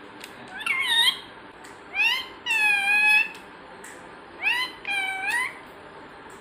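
A pet animal gives meow-like calls in three bouts, each a short rising note followed by a longer, arching one.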